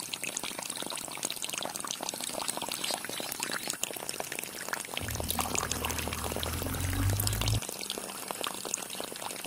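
Water pouring and splashing from a miniature model water pump. A low hum comes in about five seconds in and stops a couple of seconds later.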